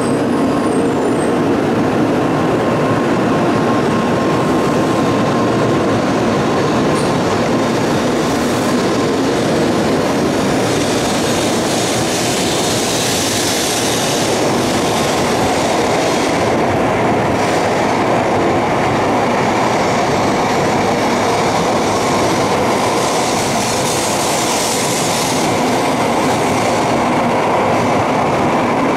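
N700 series Shinkansen train pulling out and gathering speed along the platform: a continuous rush of wheels on rail and running gear. The hiss swells around the middle and again near the end as the cars go by.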